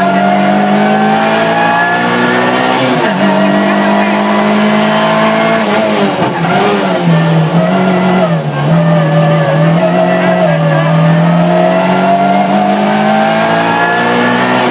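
Rally car engine heard from inside the cabin, pulling hard. Its pitch climbs, drops sharply at a gear change about three seconds in, then falls and wavers around the middle as the car slows for a hairpin, before climbing steadily again as it accelerates out.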